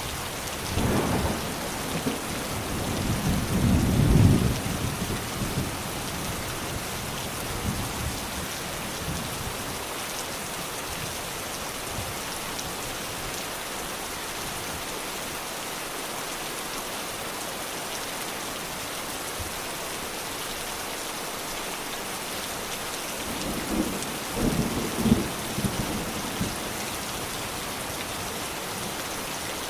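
Steady rain falling, with two rolls of thunder: a long low rumble building over the first few seconds, and a shorter one about three-quarters of the way through.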